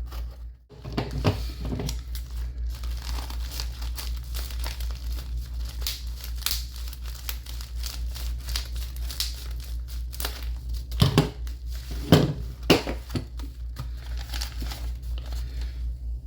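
Plastic packaging crinkling, rustling and tearing as a mailed package is opened by hand, with a few louder rustles about 11 and 12 seconds in, over a steady low hum.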